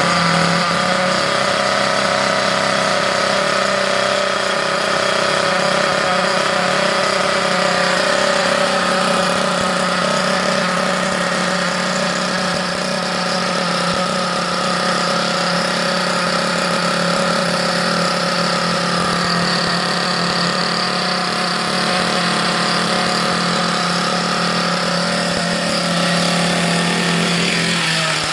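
Team Associated SC8's small two-stroke nitro glow engine idling steadily, its pitch wandering only slightly. It is running again after some eight years unused in storage.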